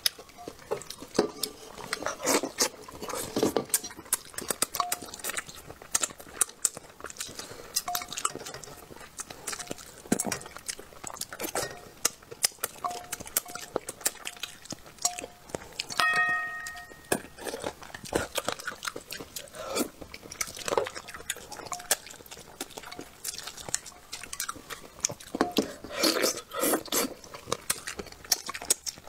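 Close-up eating sounds: chewing and biting on braised bullfrog, with wooden chopsticks clicking against the dish and bowl. About halfway through, a short ringing clink from the metal bowl.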